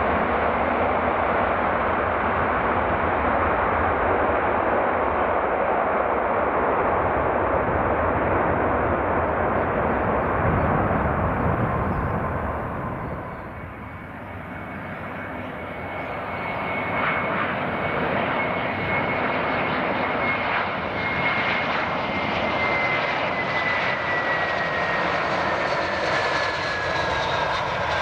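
Jet engine noise of an arriving Airbus A330-200, fading about halfway through. It is followed by an arriving Airbus A321-200 whose engine noise builds again, carrying a high whine that slowly falls in pitch.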